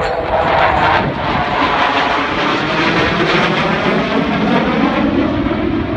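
Jet noise from Thunderbirds F-16 fighters flying past: a loud, continuous rush with a sweeping, wavering tone as they pass.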